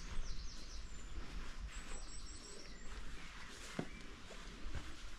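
Small birds chirping and singing in the open air over a steady low rumble, with a sharp click a little under four seconds in.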